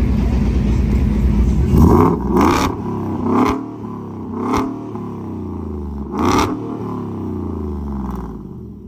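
Car engine rumbling, then revved in about five short blips, the pitch falling back after each.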